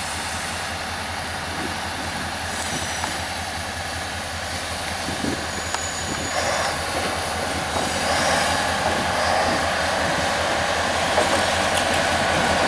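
Diesel freight locomotive pulling in slowly on the near track: steady low engine rumble with rail and wheel noise, growing somewhat louder from about halfway.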